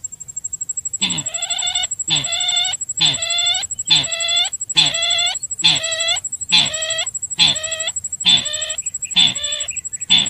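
Lure recording of the sintar bird's call: a harsh call repeated at an even pace of about one a second, each call falling in pitch, with a steady high-pitched whine underneath.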